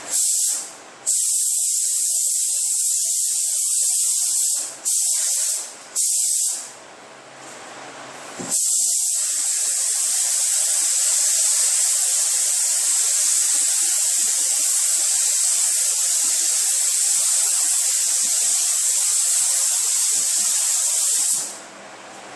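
Paint spray gun hissing as it sprays epoxy primer. Four short trigger pulls in the first seven seconds, then one long continuous pass of about thirteen seconds that cuts off near the end.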